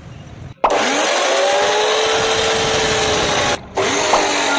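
A power tool motor running under load: a loud, steady noise with a whine whose pitch sags and recovers. It starts abruptly about half a second in and cuts out briefly near the end before resuming.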